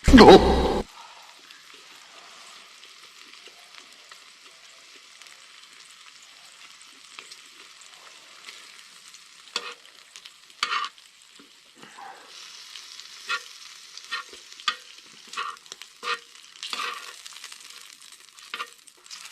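Pork belly sizzling on a cast-iron cauldron-lid griddle, a steady high hiss of frying fat. A short loud burst right at the start, and from about halfway on, sharp clicks and scrapes of utensils working the meat on the metal.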